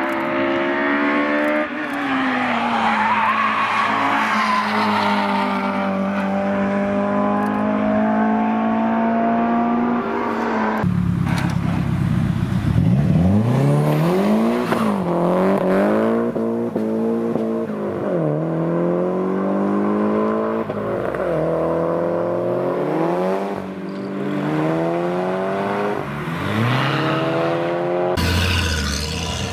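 Honda K20A VTEC four-cylinder held high in the revs on track, its note steady and slowly rising. Then a Nissan SR20DET turbo four-cylinder accelerates hard, revving up and dropping back about six times. Near the end another car's sound comes in.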